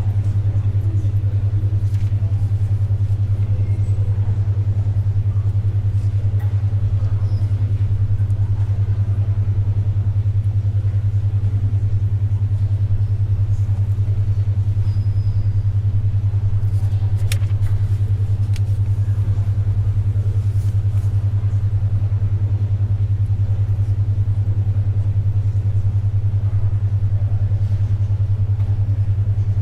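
A 10.2 Hz alpha-wave brainwave tone: a steady low hum that pulses rapidly and evenly. It sits over faint library ambience, with a few soft, brief clicks of paper or writing.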